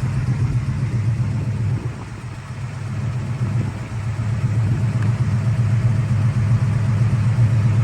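Vehicle engine idling steadily, a low even drone that dips briefly in loudness about two seconds in.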